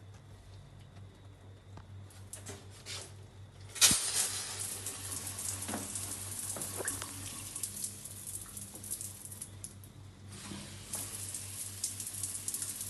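Water running from a tap or pipe: it comes on suddenly with a knock about four seconds in and flows as a steady hiss, dipping briefly near the ten-second mark, over a low steady hum.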